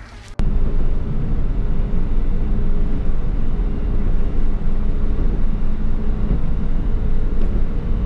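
Steady running noise heard from inside a diesel railcar: a low engine drone and rumble. It cuts in abruptly just after the start.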